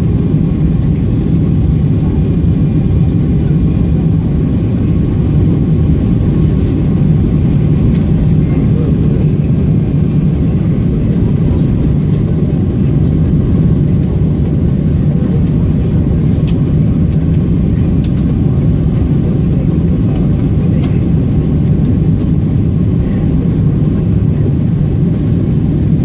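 Airliner cabin noise: the jet engines and airflow make a steady, loud, low rumble.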